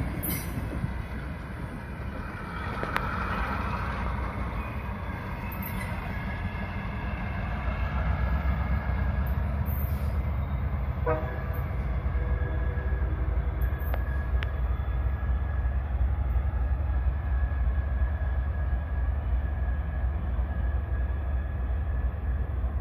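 Passenger train rolling past and away: the last car's wheels clear at the start, then a low rumble from the departing train grows louder about a third of the way in, with the locomotive's horn sounding far off up the line.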